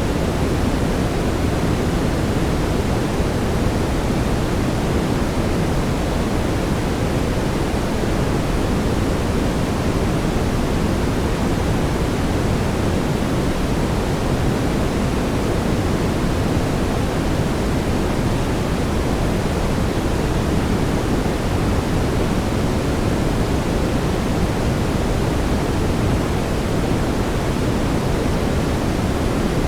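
Steady synthetic brown noise: an even, deep rushing hiss weighted toward the low end, with no changes.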